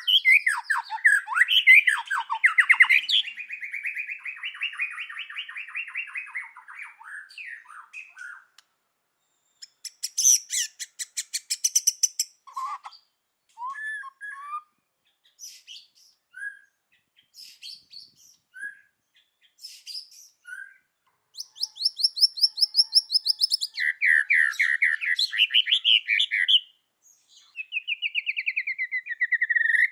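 White-rumped shama singing a varied song. It opens with a long buzzy rattle of several seconds, has short whistled notes and clicks in the middle, and ends with fast repeated trills and a falling rattle.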